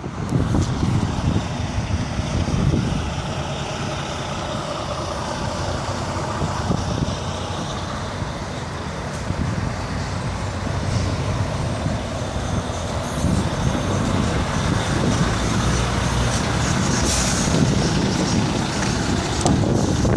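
Heavy truck's diesel engine running steadily, with a short hiss of air about three-quarters of the way through.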